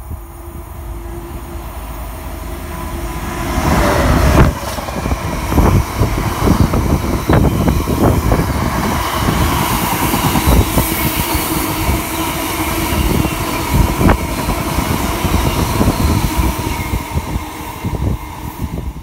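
Freight train passing at speed. The rumble swells as the locomotive nears and rushes past about four seconds in, then a long line of wagons follows, rumbling loudly with repeated wheel clatter.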